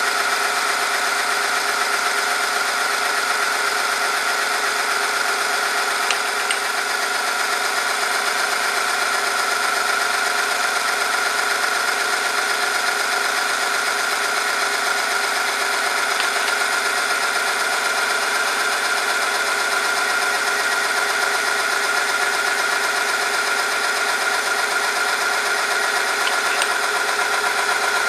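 Oil-film friction test machine running under load: its motor spins a steel roller against a test sample, giving a steady, even whine with a grinding rasp over it. Three faint clicks come about ten seconds apart.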